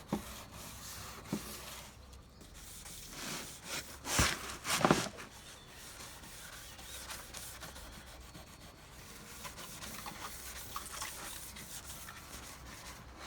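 Car rear bumper being wet-sanded by hand with wet-and-dry abrasive paper, a continuous rubbing rasp as the paper scuffs the shine off the paint. A few louder strokes come about four to five seconds in.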